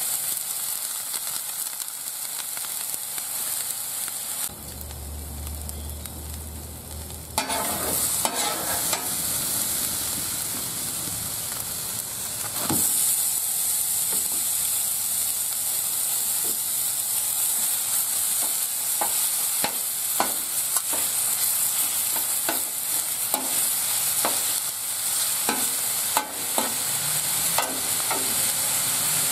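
Onions and ground beef frying on a hot steel flat-top griddle, a steady sizzle that grows louder about halfway through as the raw beef goes down. In the second half a metal spatula repeatedly scrapes and taps on the griddle plate, chopping up the beef.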